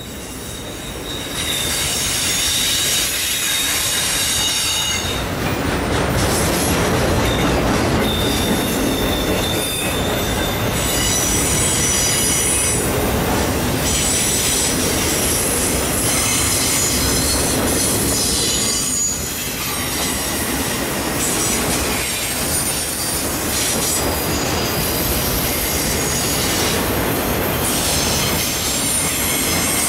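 Freight train of autorack cars rolling past at close range, steel wheels running on the rail with high-pitched wheel squeal that comes and goes.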